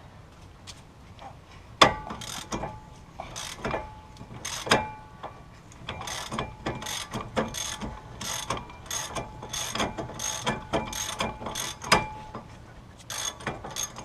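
Hand ratchet wrench clicking in a run of short strokes on a bolt of the brake assembly, each click with a ringing metallic tone, about two a second in the middle stretch, with a sharper metal knock just before two seconds in and another near the end.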